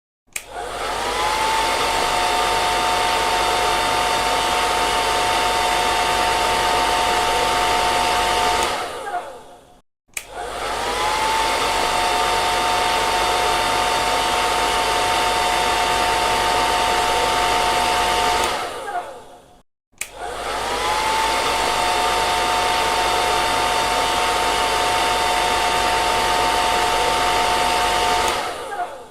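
Hair dryer switched on, its motor whine rising and then settling into a steady rush of air with a high hum, running about eight seconds before being switched off and winding down. This happens three times, with a moment of silence between.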